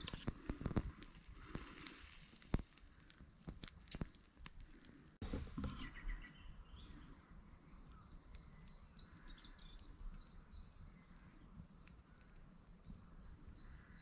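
Quiet woodland ambience: a few faint scattered clicks and crackles in the first half, with faint bird chirps later on.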